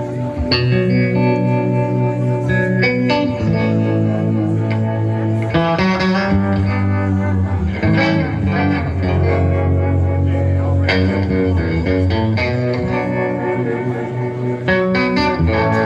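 Live rockabilly band playing an instrumental intro: guitar chords with bass underneath, the chords changing every second or two.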